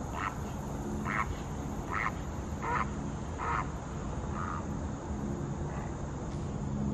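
A bird calling a series of about seven short calls, a little under a second apart, growing fainter toward the end, over a faint low hum.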